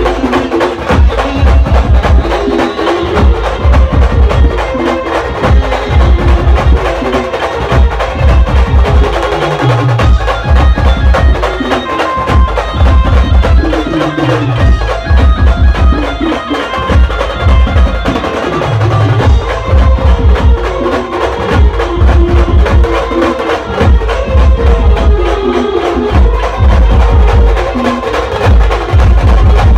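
Loud band music for a Marathi devotional folk song: drums driving a steady rhythm with heavy bass beats under a keyboard melody.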